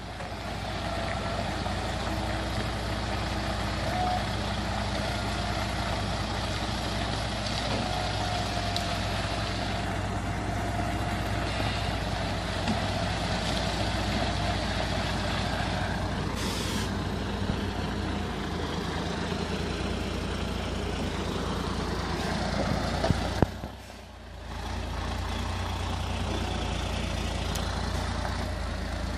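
Heavy truck's diesel engine running steadily, with a short hiss of air partway through.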